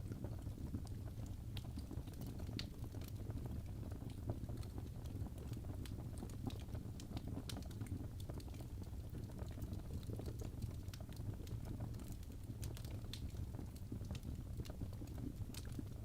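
Wood fire burning in a fireplace: a steady low rumble of the flames with frequent irregular crackles and pops from the logs.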